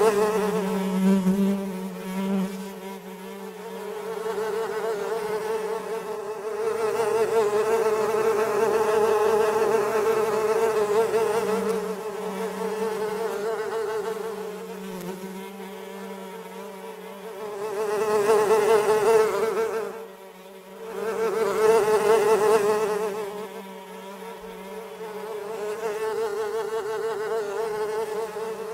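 Houseflies buzzing in flight, a steady droning hum that swells louder and fades as they pass, dropping away briefly about twenty seconds in.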